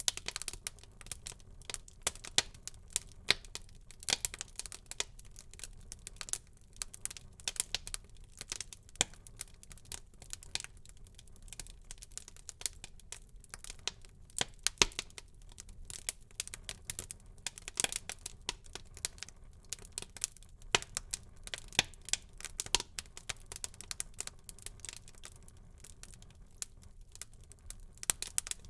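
Wood fire in a fireplace burning and crackling: irregular sharp pops and snaps, several a second, over a soft low hiss.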